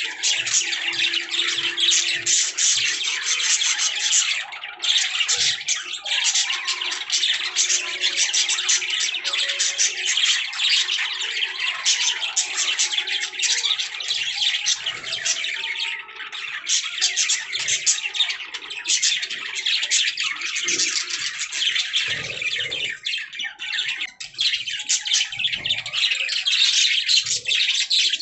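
Budgerigars chirping and warbling without pause: a dense stream of rapid, high chirps mixed with harsher squawks.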